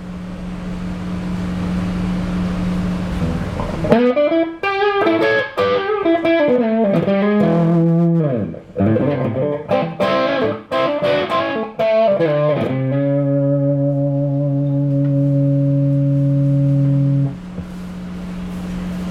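Overdriven electric guitar through an EGO TM2 overdrive pedal, set for a Marshall plexi-style crunch, playing a lead. A held note swells for a few seconds, then a fast bluesy run with string bends, then a long sustained note, and near the end another held note swelling.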